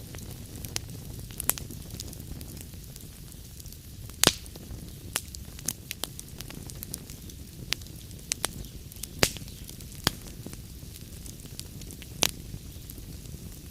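Wood fire burning in a fireplace: a steady low rumble and hiss of the flames with irregular sharp crackles and pops, the loudest pops about four, nine and twelve seconds in.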